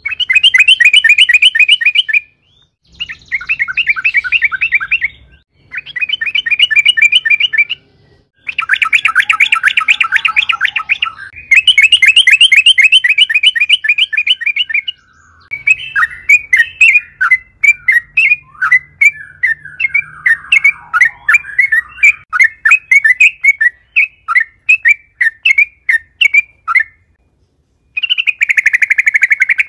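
Yellow-vented bulbul (trucukan) singing loudly: rapid bubbling rattled phrases of about two seconds each, separated by short pauses, then from about halfway a long run of separate quick chirpy notes, and one more rattled phrase near the end.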